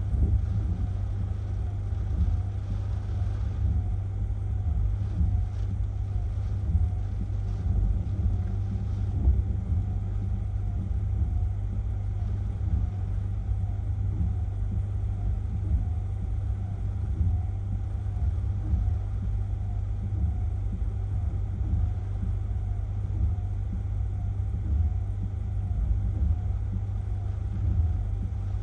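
Hurricane-force wind buffeting the microphone: a steady, heavy low rumble that swells and dips with the gusts.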